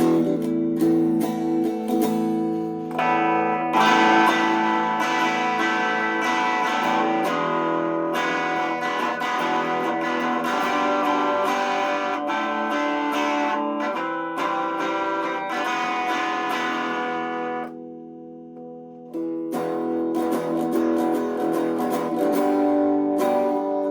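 Squier Affinity Stratocaster electric guitar, freshly strung with 9–42 strings, being strummed through a series of ringing chords. About three-quarters of the way through the chords die down for a moment before the strumming starts again.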